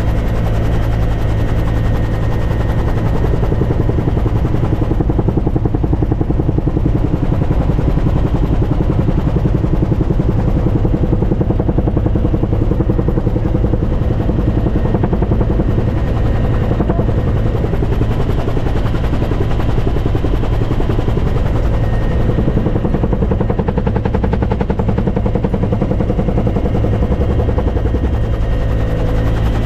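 Helicopter running steadily, its rotor beating rapidly over a constant engine drone.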